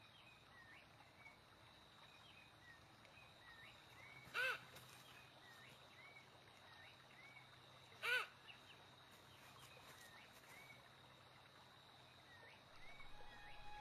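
Wild bird calls: faint short chirps repeating throughout, and two loud, clear pitched calls about three and a half seconds apart.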